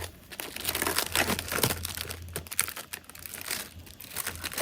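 Irregular crinkling and rustling: a run of short scratchy rustles, as of something being handled and crumpled.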